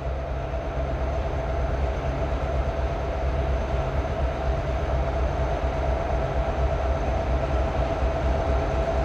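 Iowa Northern freight train moving through the junction: a steady low diesel-and-rail rumble with a constant whine on top, slowly growing a little louder.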